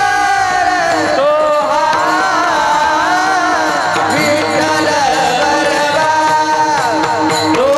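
Warkari kirtan music: singers performing a devotional abhang, their voices gliding and ornamented over a steady held drone, with mridang accompaniment.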